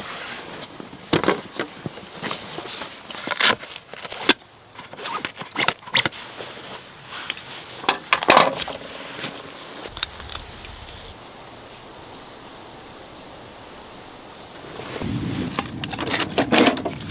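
Irregular clicks and knocks, then about fifteen seconds in a lower, rougher crunching noise that keeps going.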